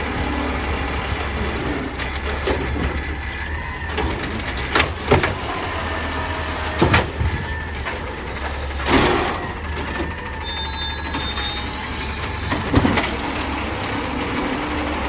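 Peterbilt 320 garbage truck with an Amrep automated side-loader body, its diesel engine running steadily under a faint wavering whine. Several sharp clanks sound at intervals, and a short hiss of air comes about nine seconds in.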